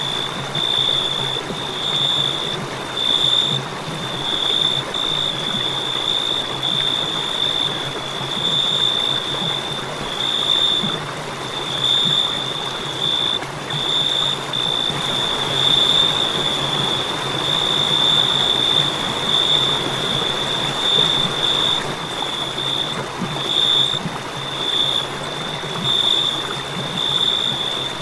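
Crickets chirping in one high, unbroken trill that pulses in short runs, over a soft, even background hiss.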